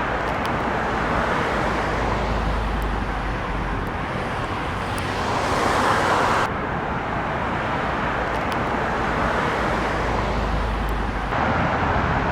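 Steady road traffic noise, with a vehicle passing close and swelling in loudness toward about six seconds in. The background changes abruptly twice, as where recordings are spliced together.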